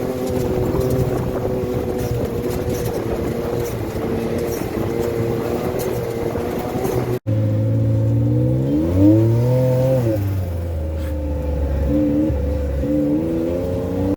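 A motor vehicle engine running steadily; after an abrupt cut about seven seconds in, an engine revs up and falls back, then runs on with a couple of short blips of the throttle.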